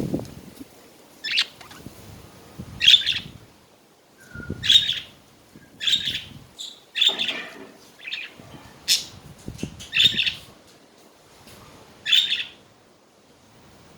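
Pet budgerigars chirping and chattering in short, separate high calls, about eight spread across a few seconds, with soft low thumps under some of them.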